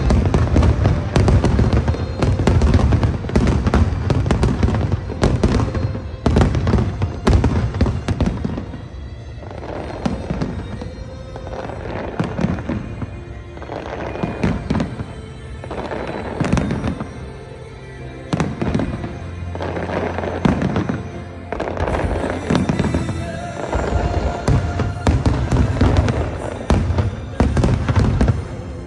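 Aerial fireworks display: a dense barrage of booming shell bursts and sharp cracks. It thins out briefly twice in the middle and builds back to heavy volleys toward the end.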